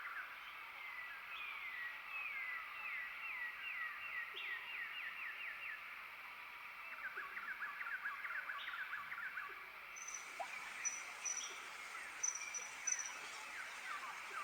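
A dense chorus of many small animals calling, made of rapid downward-sweeping chirps in quick series. From about ten seconds in, a few short, high, piping notes join in.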